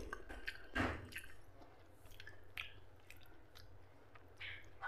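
Close wet chewing of soft, gravy-soaked mutton fat, with squishy mouth sounds and small clicks and a louder wet smack about a second in.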